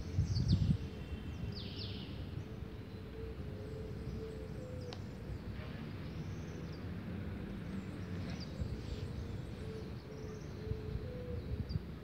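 Outdoor ambience: small birds chirping now and then in short falling chirps, over a low rumble with a few thumps in the first second and a faint wavering hum.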